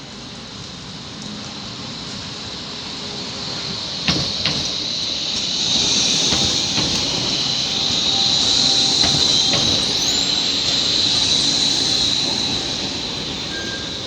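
A tram running through the tight turning loop of the terminal. Its wheels click over rail joints about four seconds in. A high, steady wheel squeal follows as it rounds the curve, growing louder and then easing off near the end.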